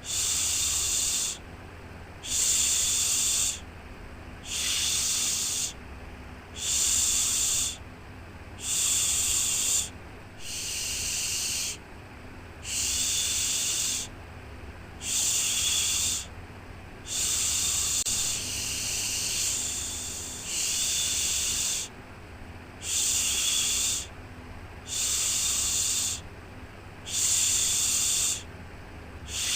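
Rhythmic 'shhh' shushing for soothing a baby to sleep: a hissing shush about a second long, repeated roughly every two seconds, over a steady, quieter bed of white noise with a low rumble.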